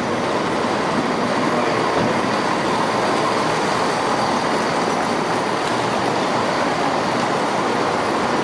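A train running through a station, a steady noise of its engine and wheels that holds level throughout.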